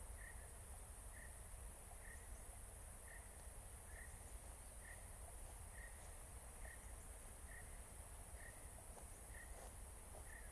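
Faint night insects: a steady high-pitched insect drone with a short chirp repeating about once a second, over a low rumble.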